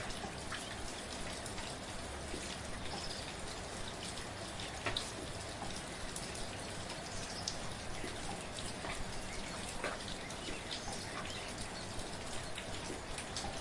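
Gentle, steady rain falling, an even hiss with scattered individual drops ticking on a surface.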